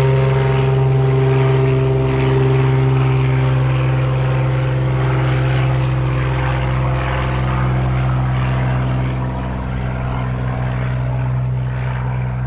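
An engine running steadily with a loud, even drone.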